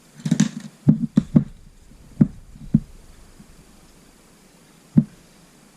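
A series of sharp knocks and clacks from hard parts or tools being handled and set down on a workbench. They come in a quick cluster at first, two more follow a little later, and a single louder knock comes near the end.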